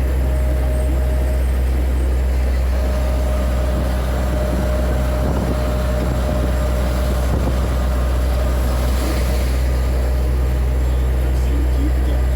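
Scania P124 truck's diesel engine running steadily under way, a deep even drone with no change in pitch.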